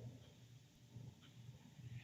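Near silence: room tone with a faint low hum and a couple of faint ticks.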